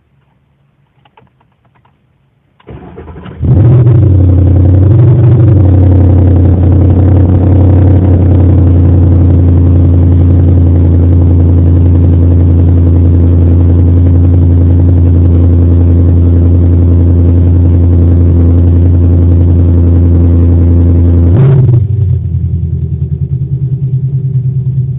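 2011 Mustang GT's 5.0 V8, through Kooks long-tube headers, an off-road H-pipe and Borla axle-back mufflers, cranking on the starter and firing up about three seconds in. It flares once in revs, settles into a loud, steady high idle, then drops to a lower idle a few seconds before the end.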